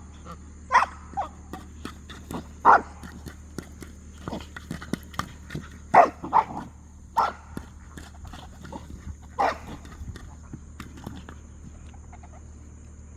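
Farm dog barking in single, spaced-out barks, several of them loud, with the last one about nine and a half seconds in.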